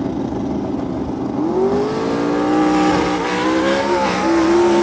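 Drag racing engines running steadily, then about a second and a half in revving up and pulling hard as the vehicles launch down the strip, the pitch rising and holding high with a brief dip near the end, typical of a gear change.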